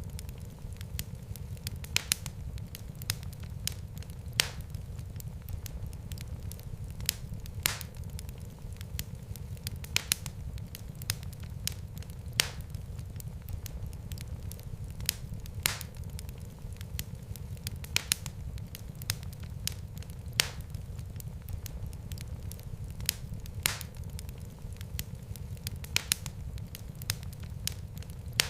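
Wood fire in a fireplace crackling, with sharp irregular pops a few times a second over a steady low rumble of the flames.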